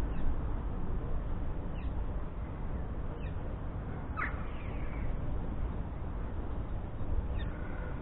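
A few short bird calls over a steady low rumble: faint ones about two and three seconds in, a clearer sharply falling call about four seconds in, and another near the end.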